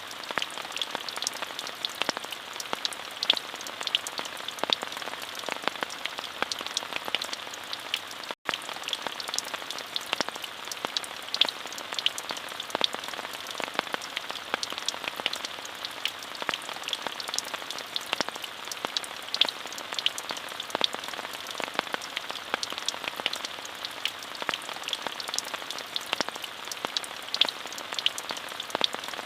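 Steady rain falling, a dense patter of individual drops ticking through an even hiss. The sound drops out for an instant about eight seconds in.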